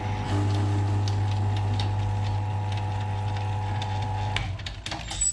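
Electric motor of a metal-working machine tool running with a steady hum and faint ticking from the cut. It is switched off about four and a half seconds in, and a few sharp metallic knocks follow.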